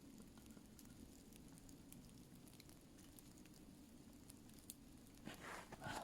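Near silence: faint scattered pattering ticks over a low background hum, with a short rustle near the end.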